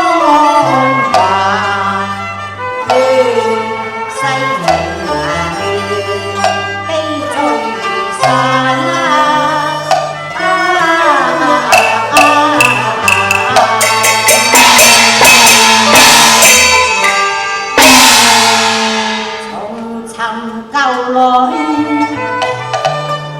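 Instrumental interlude of Cantonese opera accompaniment: melody instruments over a steady bass, with percussion strikes quickening in the middle and one loud crash near the end that rings away.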